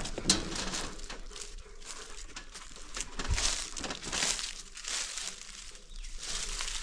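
Irregular crunching and crinkling rustles with a sharp click near the start.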